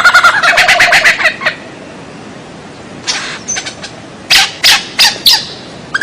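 Bird calls from a masteran bird-song training recording. A rapid chattering trill stops about a second and a half in. After a short pause come a few sharp single notes, then four loud short chips near the end.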